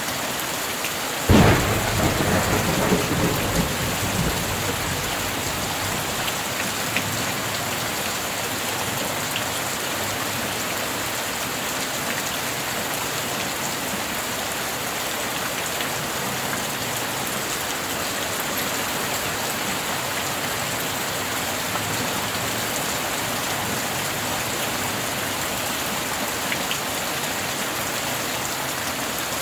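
Steady heavy rain, with a sharp thunderclap about a second in that rumbles away over the next few seconds.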